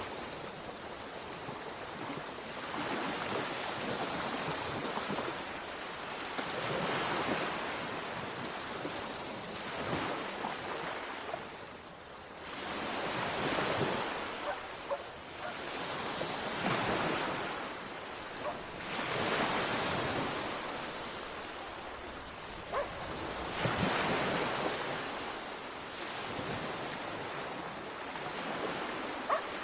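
Sea waves washing onto a shore, the surf swelling and falling back every few seconds, with a few short sharp sounds over it.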